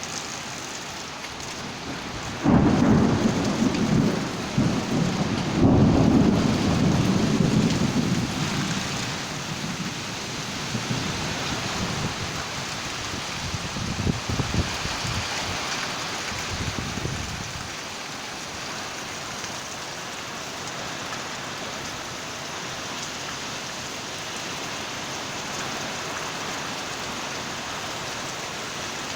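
Thunderstorm: steady heavy rain, with loud low rumbles about two seconds in and again from about six to nine seconds, and weaker ones in the middle, before the rain goes on evenly.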